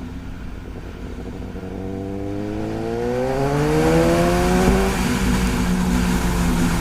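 Suzuki GSX-S1000's inline-four engine through a straight-piped Yoshimura R11 exhaust, pulling under acceleration. The note is low and steady at first, climbs for a couple of seconds from about two seconds in, then holds at a higher pitch and grows louder.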